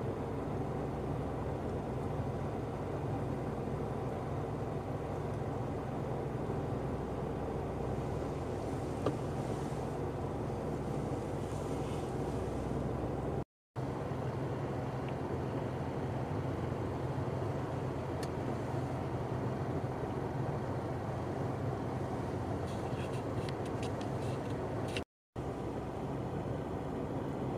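Steady drone of motor vehicle engines, cut off for an instant twice, about halfway and near the end.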